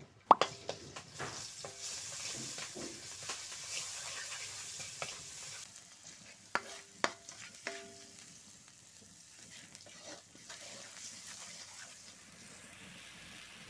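Food sizzling in hot oil in a metal wok while a metal spatula stirs and scrapes through it. The spatula knocks sharply against the wok just after the start and three times in quick succession around the middle, ringing briefly. The sizzle fades in the second half.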